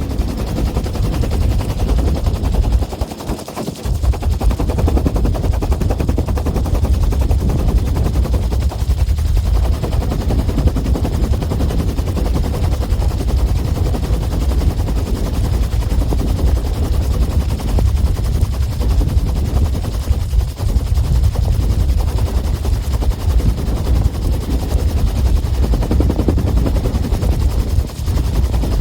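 A 1966 Bell UH-1 Huey helicopter running loud and steady: the fast, even thudding of its two-blade main rotor over the turbine.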